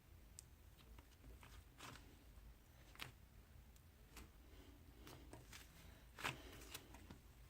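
Near silence: room tone with a few faint scattered clicks and rustles, the most distinct about three seconds in and a little after six seconds.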